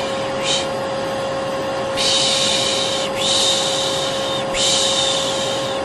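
Vacuum cleaner running with a steady motor hum, and a person's shushing 'shh' sounds over it as a baby sleep aid. There is one short shush about half a second in, then long shushes of a second or so each, one after another with brief breaks.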